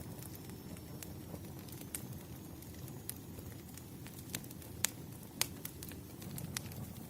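Wood fire burning with a steady low rush and scattered sharp crackles and pops, two louder pops a little past the middle.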